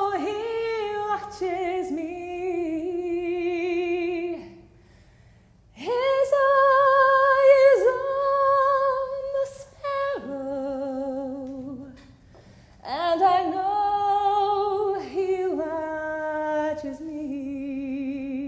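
A woman's solo voice singing long held notes with a wide vibrato, in three phrases separated by short breaths.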